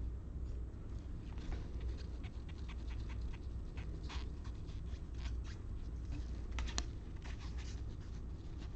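Trading cards being handled and flipped through, giving a scattered series of short soft clicks and snaps over a low steady hum.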